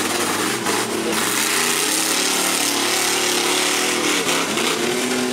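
A truck engine revs: it climbs in pitch about a second in, holds high under heavy throttle, and drops back near the end, over loud hissing noise.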